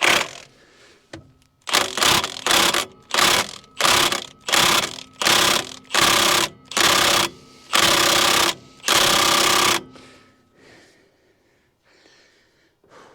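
Cordless Milwaukee impact wrench hammering on the crankshaft pulley bolt of a seized small-block Chevy V8 in about ten short trigger bursts, the last few a little longer. The engine will not turn over: it is stuck tight.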